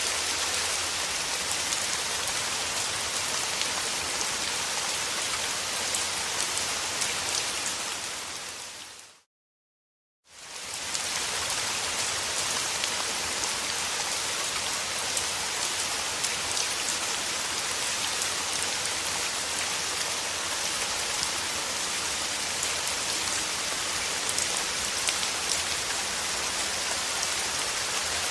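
Steady rain, with fine drops pattering on a surface. About nine seconds in it fades out to roughly a second of silence, then fades back in and carries on steadily.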